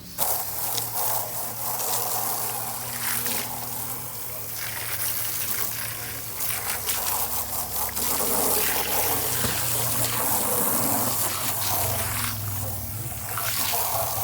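Water running and splashing steadily, starting abruptly, with a low steady hum underneath.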